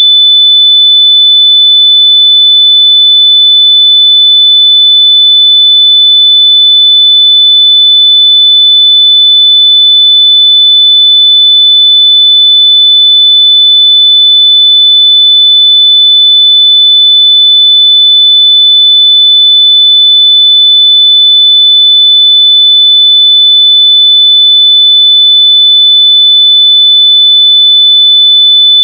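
A loud, steady, high-pitched electronic beep: a single pure sine tone of about 3.5 kHz held without a break, a test tone meant to be played at full volume through lost wireless earbuds so they can be found.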